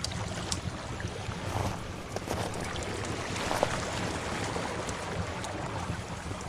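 Sea waves washing steadily, with a wood fire crackling over them in scattered sharp pops.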